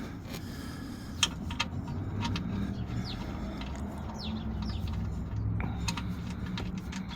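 A few short, falling bird chirps over a steady low hum, with several sharp light clicks in the first couple of seconds.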